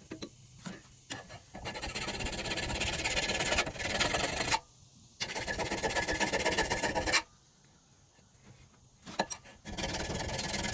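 Hand file rasping along the steel of a knife blade forged from leaf spring, three long strokes of a couple of seconds each with short pauses and light clicks between them, trimming down a thick spot on the bevel.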